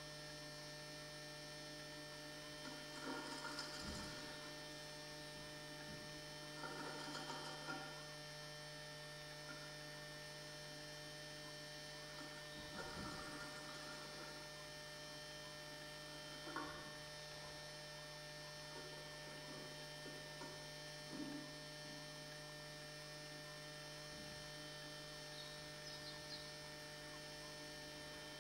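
Steady electrical mains hum from the nest-box camera's audio, with a handful of short scratchy rustles now and then: a blue tit shifting about on the nest material inside the box.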